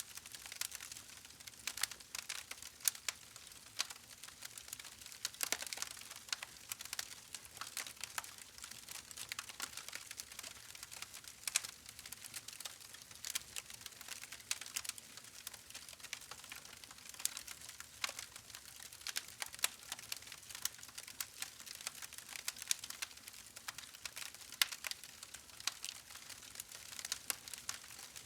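Campfire crackling: irregular sharp pops and snaps from burning wood over a faint steady hiss.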